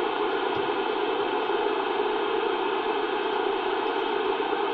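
CB radio receiver hiss: steady static through the radio's speaker between transmissions, narrow and tinny like the speech it carries.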